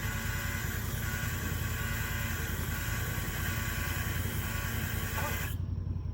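Tractor engine running steadily with a low hum, a higher rushing noise over it that cuts off suddenly near the end.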